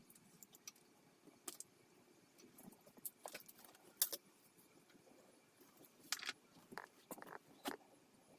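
Scattered light metallic clicks and clinks of tools and parts being handled during dirt bike reassembly, at irregular moments, the loudest about four seconds in.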